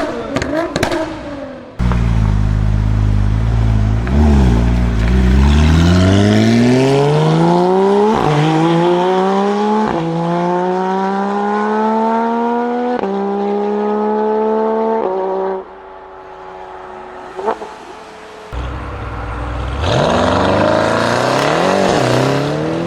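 A performance car's engine accelerating hard under full throttle. It opens with a rapid crackle of exhaust pops, then climbs in pitch through four quick upshifts before the driver lifts off. Near the end it revs up and accelerates again.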